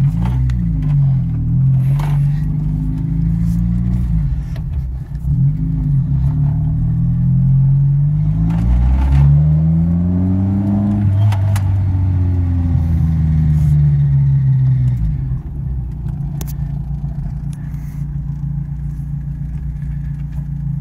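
1980 Mitsubishi Colt A150's four-cylinder engine heard from inside the cabin, revving up in rising sweeps with drops between them as it changes gear, then falling away as the car slows, and settling to a steady idle for the last few seconds.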